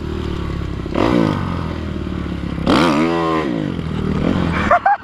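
Motocross bike engine revving up and dropping back, once briefly about a second in and more strongly about three seconds in. A quick run of short high chirps comes in just before the end.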